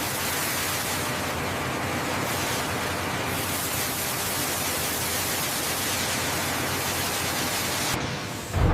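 A steady, loud hiss of rushing noise. Near the end it fades and a deep, loud rumble begins.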